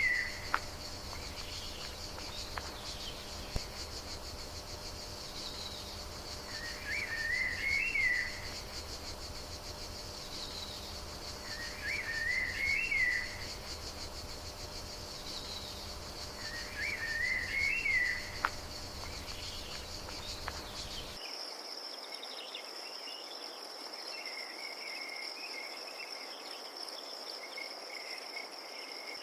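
Insects trilling in a fast, high pulse while a bird repeats a short warbled phrase about every five seconds. Around two-thirds of the way through, the sound cuts abruptly to a steady, high, unbroken cricket trill with faint bird chirps.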